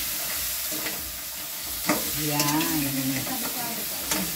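Crabs frying and sizzling in a metal wok as a spatula stirs them, with a steady hiss and a couple of sharp clacks of the utensil against the wok, about two seconds in and near the end.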